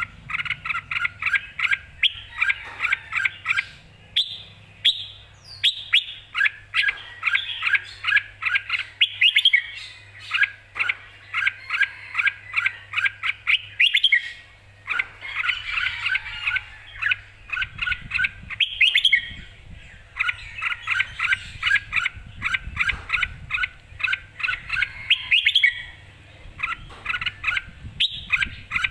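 Red-whiskered bulbul singing lively, full song: phrase after phrase of quick, bright repeated notes, with short pauses between phrases.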